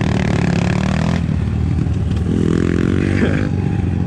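Pit bike engine running and revving, its pitch rising and falling, with a climbing rev about two and a half seconds in.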